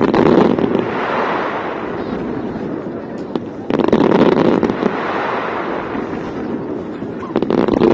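Fireworks going off in three volleys about three and a half seconds apart. Each starts with a sharp burst and is followed by a few seconds of dense crackling that slowly fades.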